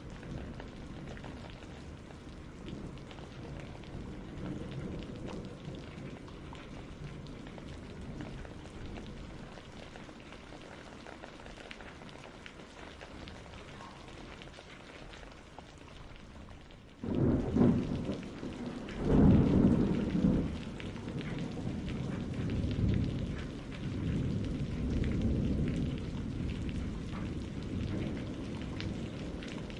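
Steady rain falling. About halfway through, thunder breaks in suddenly and rumbles on, loudest in two swells a couple of seconds apart.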